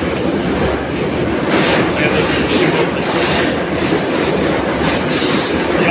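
Soviet-built 81-717.5 metro car running at speed, heard from inside the car: a loud, steady rumble of wheels on rail with clatter. Brief higher-pitched squeal from the wheels comes about one and a half and three seconds in.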